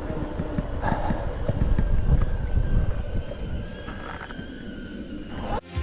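Wind buffeting the microphone and road rumble while riding a bicycle, loudest around two seconds in and easing off. The sound cuts off abruptly near the end.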